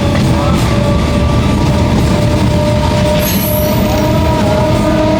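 Train moving through a railway station: a steady low rumble with several high, slightly wavering squealing tones from the wheels on the rails.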